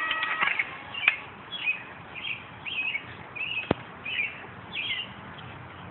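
A small bird chirping over and over, short high chirps about twice a second, with two sharp clicks in between.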